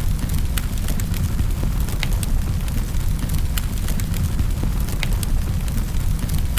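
Wood fire in a fireplace, burning with a steady low rumble and scattered sharp crackles and pops, several a second.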